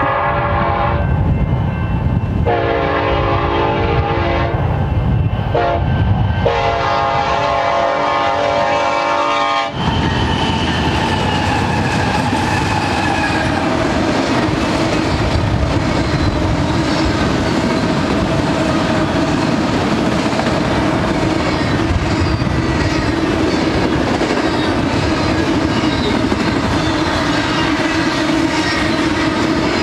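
Locomotive air horn sounding the grade-crossing signal: the end of one long blast, then another long, a short and a final long blast that cuts off about ten seconds in. After that, a Union Pacific freight train of autoracks and double-stack container cars rolls steadily past close by, its wheels clicking over the rail joints.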